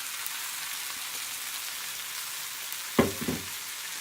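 Onion and tomato curry base sizzling steadily in a frying pan, with a sharp knock about three seconds in and a smaller one just after.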